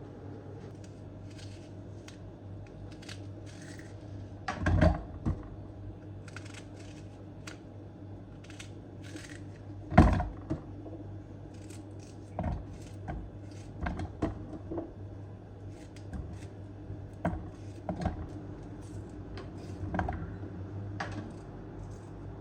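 Scattered light clicks and knocks of household objects being handled, over a steady low hum; the two loudest knocks come about five and ten seconds in.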